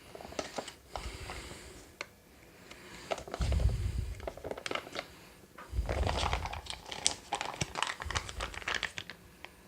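MRE drink pouch crinkling and rustling as it is handled and squeezed to get the thick chocolate dairy shake out, with scattered clicks and a few low bumps.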